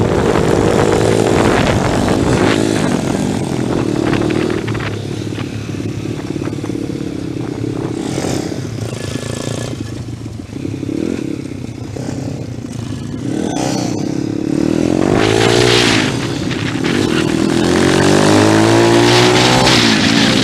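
Pit bike engine being ridden hard around a track, its revs rising and falling with each corner. The revs drop away about halfway through, then climb steeply twice near the end.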